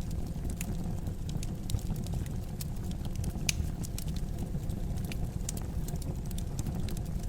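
Fireplace wood fire crackling: scattered sharp pops and snaps over a steady low rumble, with one louder pop about three and a half seconds in.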